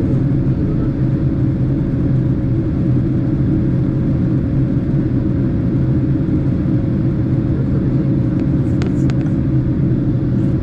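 Steady low cabin rumble of a Boeing 767 airliner in flight, engine and airflow noise with a faint steady hum. A few faint clicks about nine seconds in.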